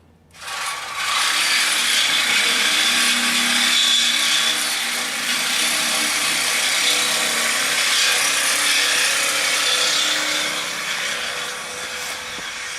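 Reciprocating saw cutting through steel chassis tubing, a loud steady rasp that starts a moment in and eases slightly near the end.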